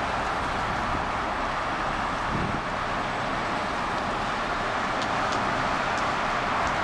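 Heavy rain falling steadily, with a few sharp ticks near the end.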